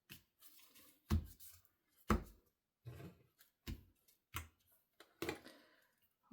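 Hands working with paper pieces on a craft desk: a series of light thuds and taps about once a second, two of them heavier, with faint paper rustling between.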